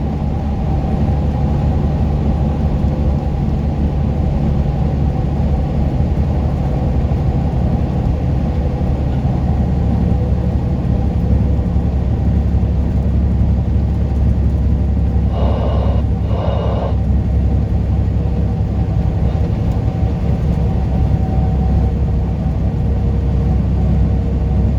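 Inside a semi-truck cab at highway speed: steady engine and road drone. About fifteen seconds in there are two short pitched sounds, each about a second long.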